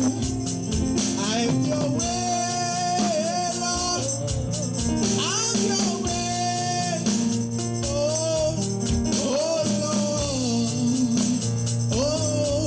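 Gospel worship music: a singer holding long, wavering notes over a band's steady chords and a regular drum and tambourine beat.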